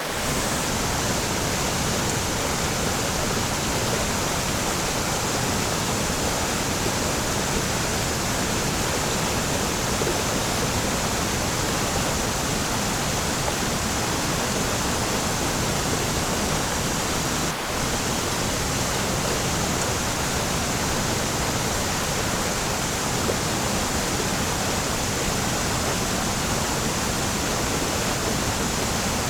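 Waterfall: steady, even rush of falling water with no let-up, dipping for an instant about two-thirds of the way through.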